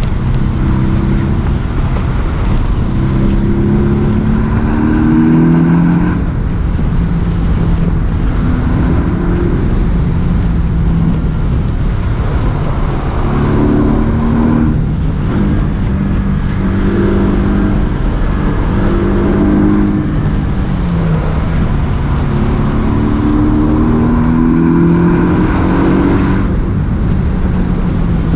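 Porsche 718 S's turbocharged 2.5-litre flat-four engine under way, its note climbing in pitch and falling back several times as the car accelerates and eases off, over a steady low rumble.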